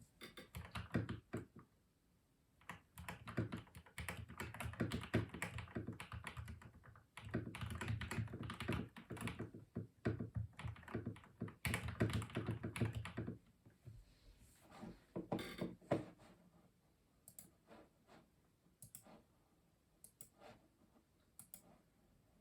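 Custom mechanical keyboard being typed on: fast runs of key clicks with short pauses between them. About two-thirds of the way through, the typing thins out to scattered single keystrokes.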